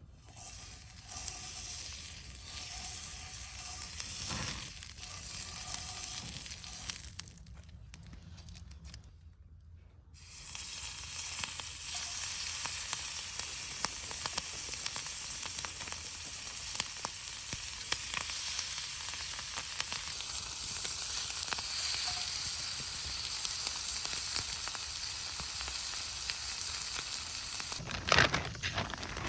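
Food sizzling in a frying pan over a campfire, a steady hissing fry with small crackles. It fades for a few seconds, then comes back louder about ten seconds in.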